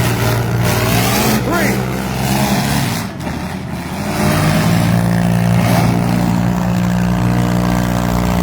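Engines of demolition-derby vans, SUVs and mini trucks running and revving in the arena, a loud steady engine drone that grows stronger about halfway through.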